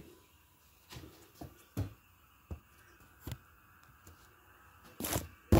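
Scattered knocks and light clanks from a sheet-metal door skin and truck door being handled and shifted into place, with a louder, sharper knock near the end.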